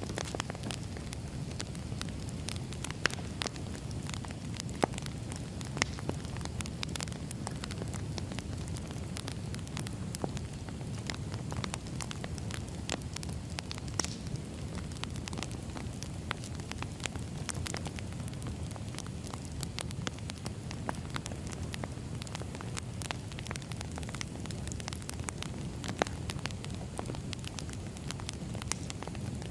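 Firewood burning with a steady low rumble of flame and irregular sharp crackles and pops, a few louder snaps standing out now and then.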